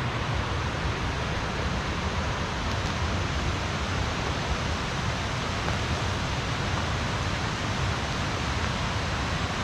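River water rushing in a steady, even roar of white water.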